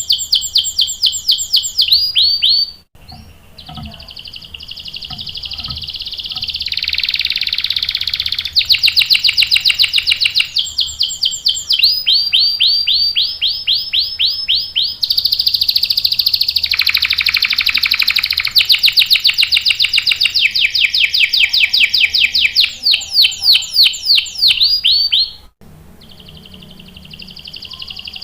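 Domestic canary singing long rolling trills: fast runs of repeated, sweeping high notes that shift from one trill to the next, with brief breaks about three seconds in and near the end.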